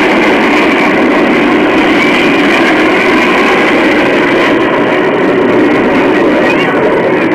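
Steady loud roar of a fighter jet's engines, holding level throughout.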